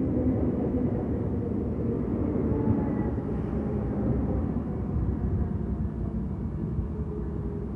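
Empty freight train running past, a steady low rumble with a faint engine drone that slowly fades.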